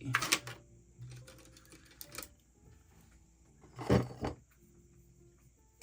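Clattering knocks of art supplies handled on a desk, most likely a watercolour paint set being opened and sorted: a loud clatter just after the start, a smaller knock about two seconds in and another loud clatter about four seconds in.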